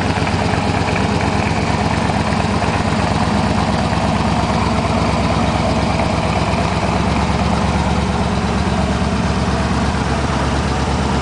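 Corvette's 1972 LT1 350 small-block V8 idling steadily with a ferocious, even rumble.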